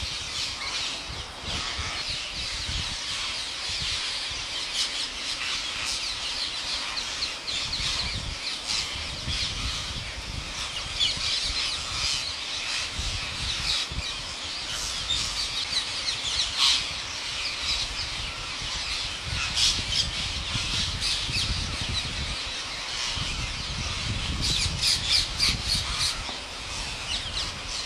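A flock of parrots squawking continuously, many harsh calls overlapping, with a few louder screeches in the second half.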